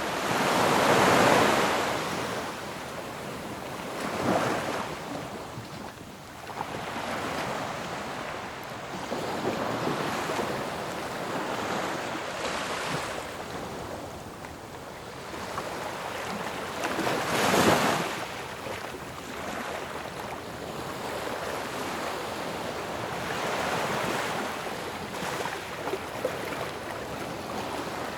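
Ocean waves breaking on a shore, one after another: a steady wash of surf that swells with each breaker. The loudest crashes come about a second in and at about 17 seconds.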